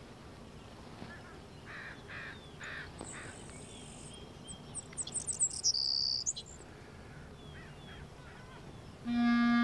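Birds chirping and calling outdoors, with a quick run of high chirps and whistles about halfway through. Near the end a clarinet starts to play, beginning with a held low note.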